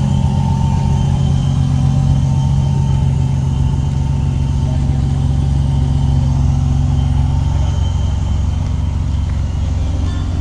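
Truck engine running steadily with a deep, even exhaust rumble.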